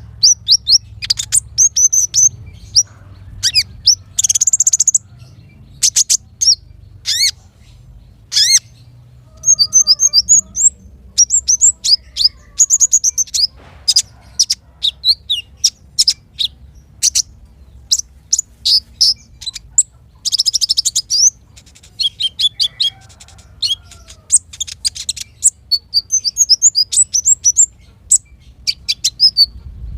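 Small songbird singing: rapid runs of high-pitched chirps, quick sweeping notes and trills with short pauses, broken twice by a dense buzzy rattle, about four seconds in and again at about twenty seconds.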